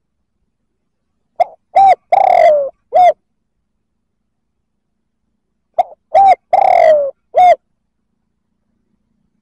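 Spotted dove cooing its song twice, about four seconds apart: each phrase is two short coos, a longer coo that falls in pitch, and a short closing coo.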